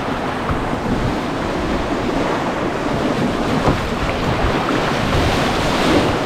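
Steady rush of river water around a canoe, with wind buffeting the microphone.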